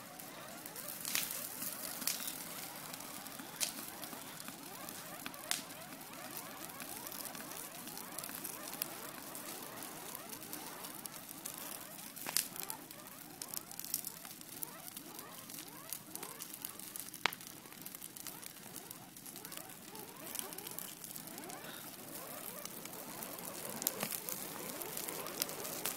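A fire burning with a steady crackle, broken by scattered sharp pops, a handful of them louder than the rest.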